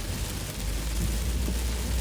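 Heavy monsoon rain hissing and pattering on a moving car, with a steady low rumble setting in about half a second in.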